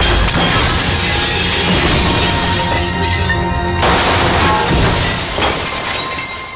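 A sudden loud crash whose noisy tail thins out after about four seconds, heard over dramatic score music.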